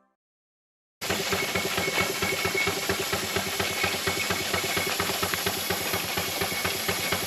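A 4-inch scale Burrell single-cylinder steam traction engine running, with steam hiss over a fast, regular beat; it cuts in suddenly about a second in.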